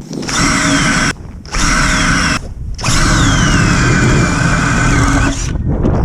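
Power ice auger drilling through ice in three runs, its motor whining and dropping in pitch as the blade bites, with short pauses between runs.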